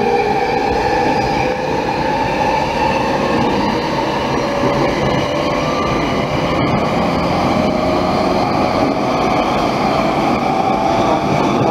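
Saikyō Line commuter train running at speed, heard from inside the car: a steady rumble of wheels on rail, with a faint whine that slowly rises in pitch.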